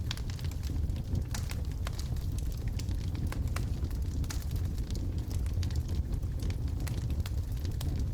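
Wood logs burning in a fireplace: a steady low rumble of the flames with frequent sharp crackles and pops scattered irregularly throughout.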